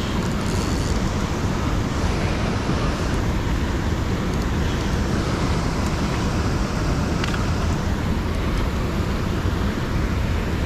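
Steady rushing noise of flowing river water, with a deep, unsteady rumble underneath.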